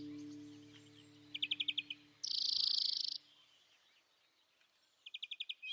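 Birdsong: a quick trill of five or six high chirps about a second and a half in, a harsh buzzy call just after, and another trill starting near the end, over the last guitar chord dying away.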